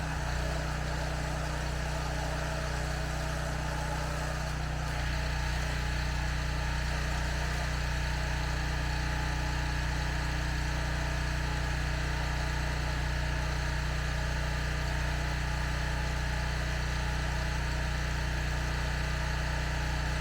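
Pressure washer running steadily with an even, constant engine-like hum.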